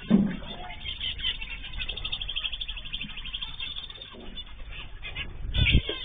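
Small cage birds chirping, with a rapid trill of evenly repeated high notes through the first half. A low thump comes near the end.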